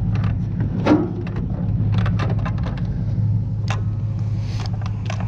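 Scattered clicks and knocks of hard scrap parts being handled, over a steady low hum.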